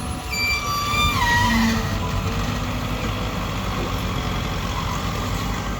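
A vehicle engine running with a steady low rumble. Over it, from about a third of a second to nearly two seconds in, a brief high-pitched tone steps down in pitch.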